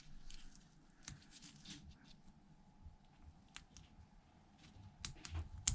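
Faint, scattered clicks and taps of a small tool unsnapping flex-cable connectors from an iPhone 11 Pro Max's logic board, with a few sharper clicks near the end.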